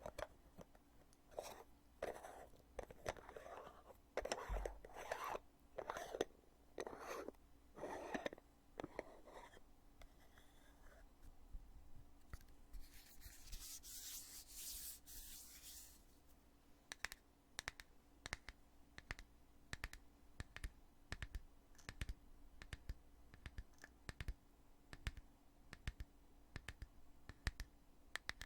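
The heavy lid of a cosmetic foundation container being opened and closed over and over. First comes a run of scraping rubs, about two a second, then a brief hiss in the middle. After that come many sharp clicks, one or two a second.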